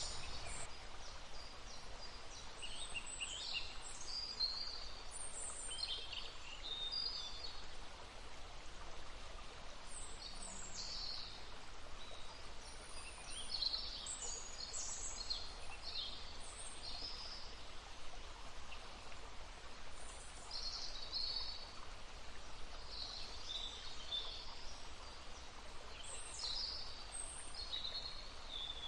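Small songbirds chirping and calling repeatedly in short high phrases, over the steady rush of a babbling stream.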